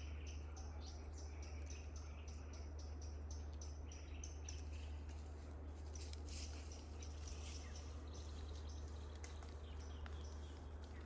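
A bird calling in a quick even series, about three short high notes a second for the first four seconds, over a steady low rumble.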